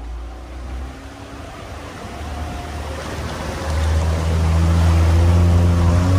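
Off-road car's engine running under load, growing steadily louder and heaviest from about four seconds in, over a steady rushing noise.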